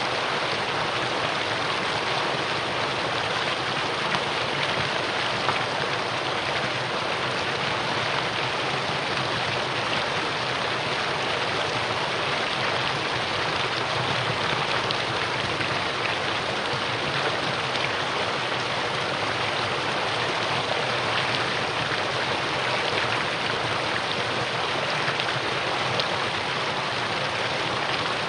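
Mountain valley stream rushing over rocks, a steady, even flow of water.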